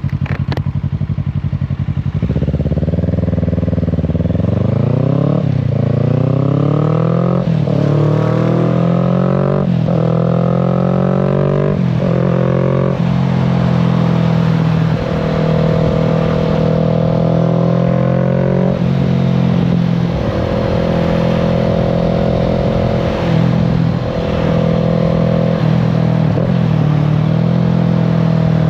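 Kawasaki Z650's parallel-twin engine idling for about two seconds, then pulling away hard with the revs climbing and dropping back through several upshifts. It then settles into a steady cruise, with the revs dipping briefly a few times near the end.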